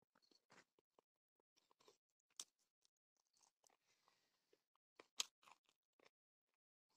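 Faint, scattered chewing and mouth clicks of a person eating a meal of rice and pork by hand, with two sharper ticks about two and a half and five seconds in.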